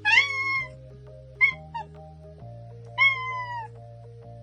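A cat meowing: a meow at the start, two short chirp-like calls about a second and a half in, and a longer meow about three seconds in, each dropping in pitch. Background music with held notes plays underneath.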